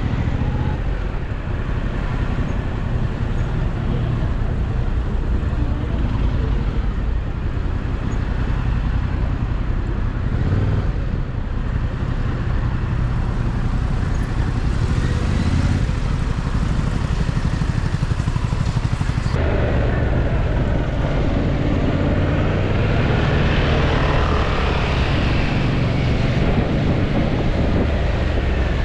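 Yamaha MT-07 motorcycle's 689 cc parallel-twin engine running steadily while riding in traffic, a continuous low rumble with road noise. About two-thirds of the way through the sound turns fuller and brighter.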